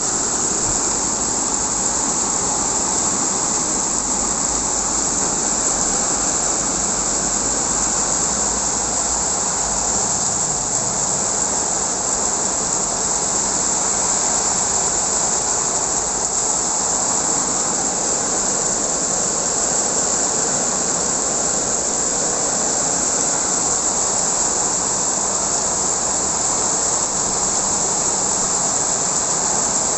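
Heavy rain pouring steadily in strong wind, a constant loud rushing hiss.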